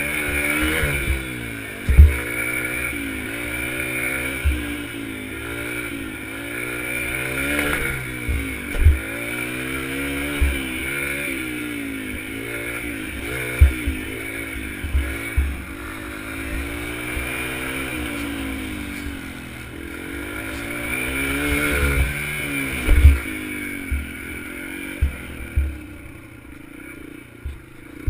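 Dirt bike engine revving up and easing off again and again, its pitch climbing and dropping every second or two, with sharp low thumps every few seconds. The engine sound falls away somewhat near the end.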